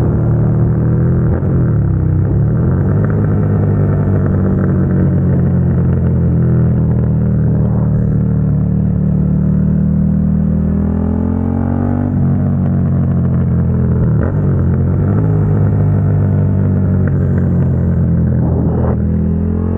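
2022 Suzuki SV650's 645 cc V-twin running through a Dominator GP aftermarket exhaust while riding. The engine pitch dips and recovers near the start, holds fairly steady, then rises and drops sharply about twelve seconds in, as at a gear change, dips again a couple of seconds later, and rises and drops once more near the end.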